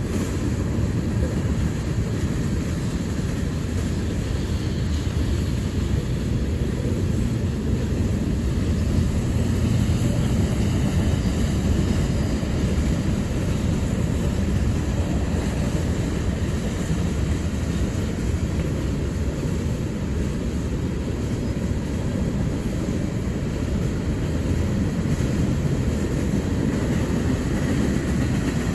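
A freight train's cars rolling past: a steady, loud rumble of steel wheels on the rails.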